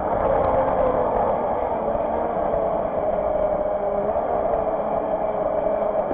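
Radio-control jet boat's motor running steadily, heard from on board, a wavering whine over the rush and spray of the water.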